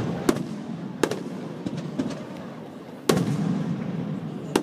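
Aerial fireworks shells bursting: four sharp bangs about a second or more apart, each trailing off in a low rumbling echo. The loudest bang comes about three seconds in.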